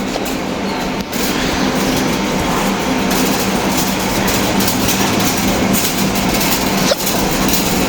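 Shopping trolley being pushed along, its wheels and wire basket rattling steadily, louder from about a second in.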